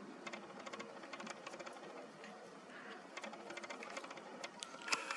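Faint rapid mechanical clicking in several short runs over a low hiss, with a sharper click near the end.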